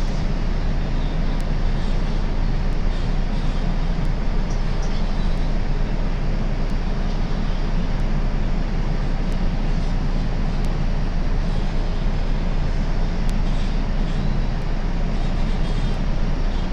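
Steady running noise of a light rail train heard from inside the car: a continuous low rumble of wheels on rail and traction motors while the train is in motion.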